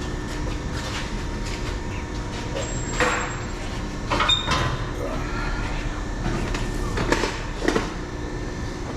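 A few short metallic knocks and clanks, the loudest about three, four and seven seconds in, as exhaust pipe and hanger parts are handled and fitted under a car, over a steady workshop hum.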